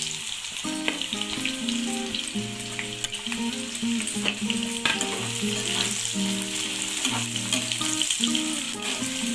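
Onions frying in hot mustard oil in a pan, a steady sizzle with scattered clicks and scrapes of a spatula as they are stirred.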